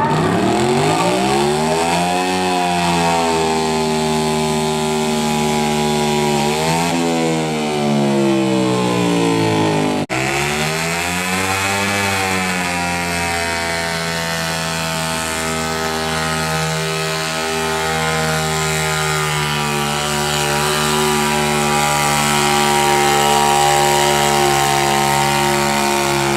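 Garden tractor engine running hard during a pull. Its pitch climbs and then sinks over several seconds, breaks off briefly about ten seconds in, climbs and sinks again, and then holds steady.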